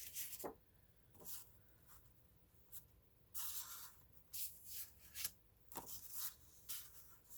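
Paper and cardstock being handled and rubbed: a string of faint, short scrapes and rustles, a few lasting about half a second.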